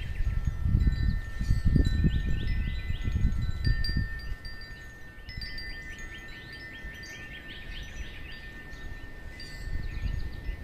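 Wind chimes ringing, with several long held tones overlapping. Gusts of wind rumble on the microphone for the first four seconds, then ease off.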